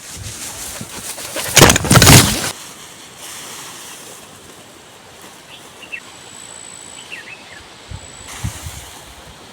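Outdoor rural ambience with a loud rushing burst of noise lasting about a second, a second and a half in, then a few faint bird chirps.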